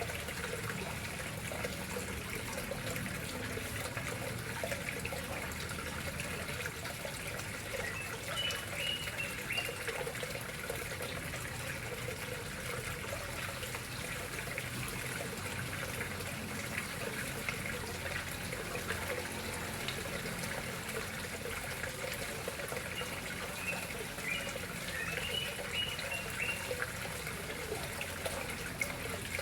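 Water flowing and trickling steadily into a koi pond. Faint short high chirps come through twice.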